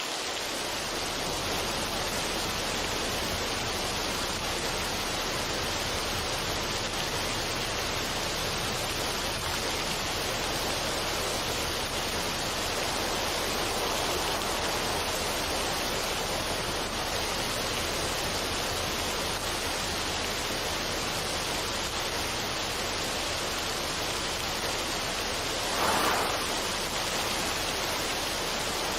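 Steady, even rushing noise with no tune or rhythm, swelling briefly louder about 26 seconds in.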